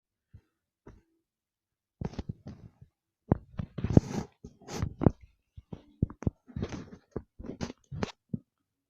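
A pet chewing: an irregular run of short crunches and clicks that starts about two seconds in and is busiest in the middle.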